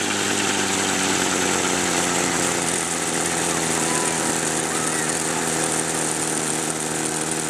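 Helicopter engine running steadily with its RPM held high, an even, unchanging engine tone under a steady hiss.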